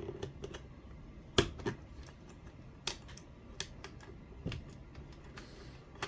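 Small tools and metal parts of an RC car's steering assembly clicking and tapping irregularly as they are handled and fitted, with a sharper click about a second and a half in.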